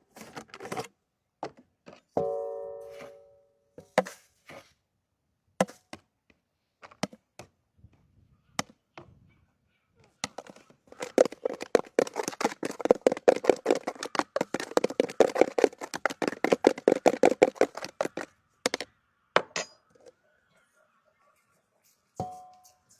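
Kitchen work sounds: scattered knocks and clinks of hard dishes or utensils, one of them ringing briefly about two seconds in. Later comes a run of fast, even strikes lasting about seven seconds, like rapid chopping or beating in a bowl.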